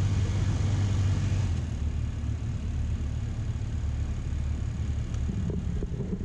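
Passenger-side A/C blower fan of a 2011 BMW 528i running on high: a steady rush of air over a low hum, a little louder in the first second and a half. The owner likens the odd noise to something touching the blade of the fan.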